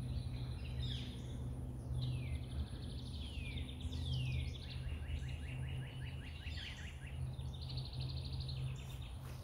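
Songbirds singing in woodland: repeated chirps that slide down in pitch, with a fast trill lasting about two seconds near the middle, over a steady low hum.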